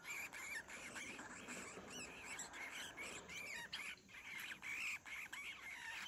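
Two collared finchbills calling back and forth in a string of soft, short chirps.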